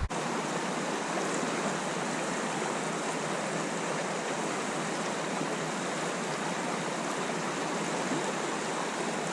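Spring creek water running, a steady even rush with no break.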